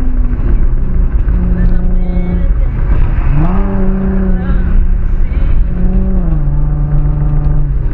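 Infiniti Q50's VQ37 3.7-litre V6 running with its muffler and resonator deleted, a loud, raspy exhaust drone heard while driving. The engine note drops in pitch at the start, climbs sharply a little over three seconds in, holds, then falls again about six seconds in, as revs change.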